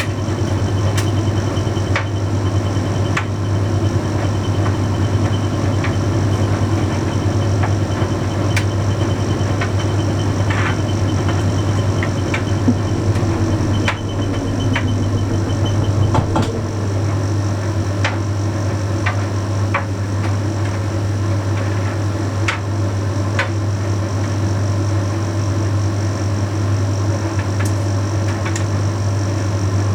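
Bosch Series 6 heat pump tumble dryer running mid-cycle, with a steady low hum, a whir and a faint high whine, plus scattered sharp clicks.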